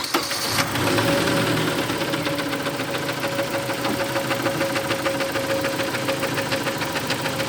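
Engine idling just after starting, with a fast, regular knocking tap running through it: the persistent knock whose cause the owner cannot find.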